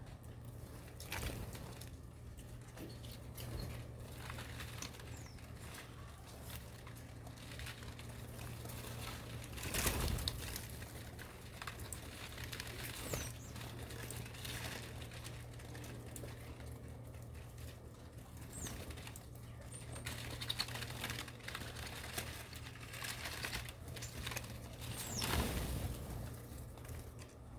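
Birds moving about, with scattered fluttering and rustling, light taps, and a few faint, short high chirps.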